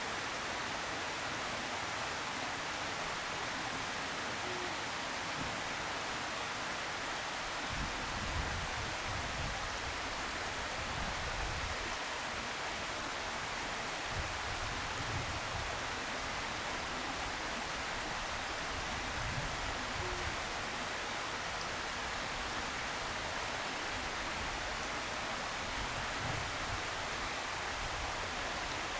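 Steady, even outdoor background hiss, with irregular low rumbles several times.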